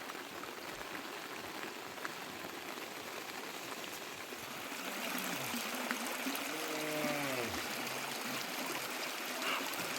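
Running water, a steady rushing like a stream or rain runoff, growing a little louder about halfway through. A brief pitched call sounds in the distance twice near the middle.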